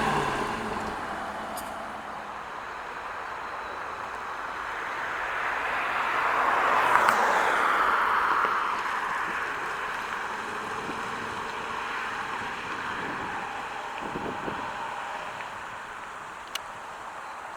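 A car passing by: its road and engine noise swells to a peak about seven seconds in, then fades away.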